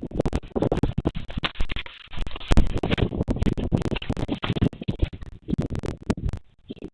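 Loud, irregular scratching and crackling close to a microphone, dense clicks over a low rumble, with brief lulls about two seconds in and near the end.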